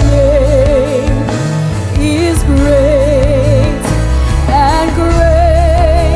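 Live worship music: a singer holding long, wavering notes over sustained keyboard chords and bass.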